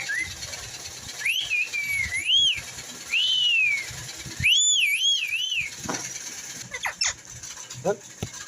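Whistling: a long wavering whistled note and a single arched note, then a quick run of four up-and-down warbles about halfway through, followed by a few short, sharp chirps.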